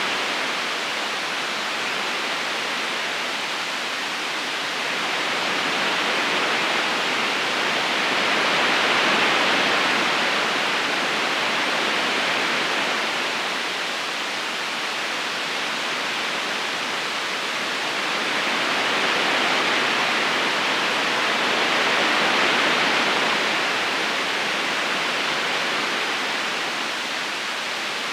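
Rushing water of a river current: a steady, even hiss that slowly swells and eases.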